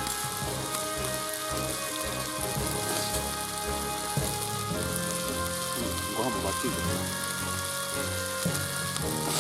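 A steady sizzling, crackling hiss with scattered small pops, under soft instrumental background music.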